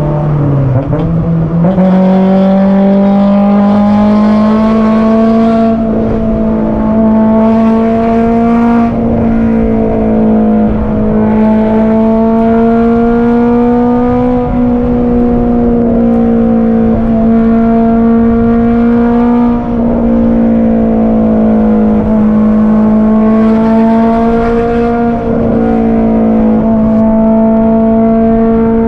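Honda S2000's four-cylinder VTEC engine pulling hard at high revs, heard from inside the cabin in a tunnel. About a second in, the revs fall, then jump up on a downshift. After that the engine holds a high, steady note that climbs slowly, with a few brief dips as the throttle eases.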